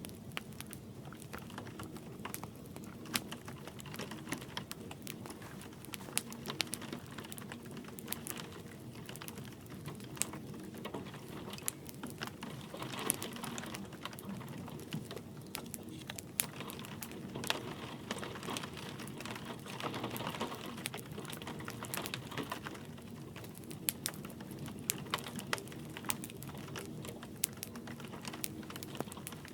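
Wood fire crackling with many sharp pops, over a steady soft wash of light rain; the hiss swells briefly a few times midway.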